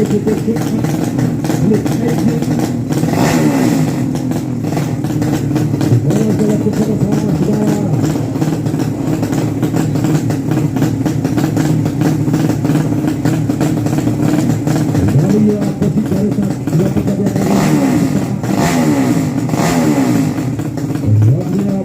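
Racing motorcycle engines running, several at once, revving up and dropping back in repeated pitch sweeps a few seconds in and again near the end.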